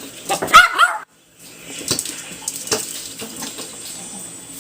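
Water running from a tap and splashing, with scattered small knocks. In the first second there is a short high-pitched vocal sound.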